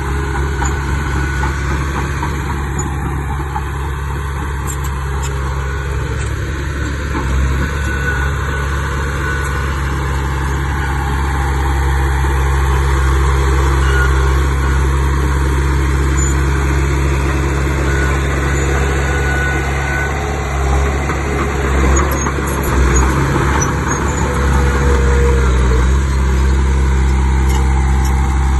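Heavy diesel engine of earthmoving machinery running steadily, getting a little louder about halfway through.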